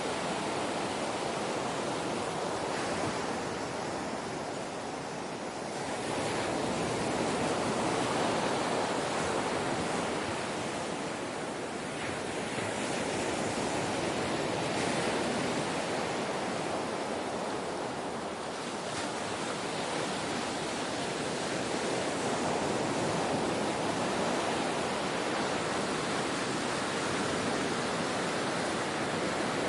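Ocean waves washing ashore in a continuous rush, swelling and easing slowly every several seconds.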